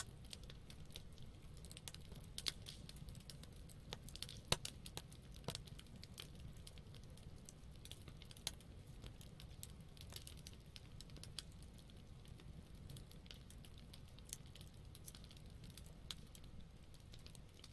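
Wood campfire crackling: irregular sharp pops and snaps from the burning wood, a few louder ones about four and a half seconds in, over a faint steady low rumble.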